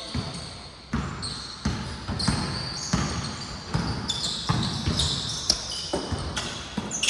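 Basketball being dribbled, a steady bounce about every two-thirds of a second.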